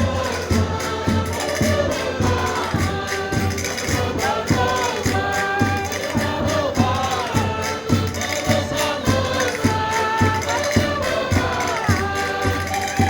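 Portuguese folk music on concertinas, with several voices singing together over a steady beat.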